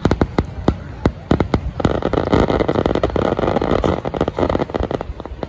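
Fireworks going off in rapid succession, sharp bangs one after another, thickening about two seconds in into a dense stretch where the bursts run together before thinning out again.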